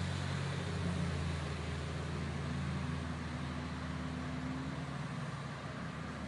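A car running steadily with road noise, a low even hum, joined by a faint steady tone for a couple of seconds in the middle.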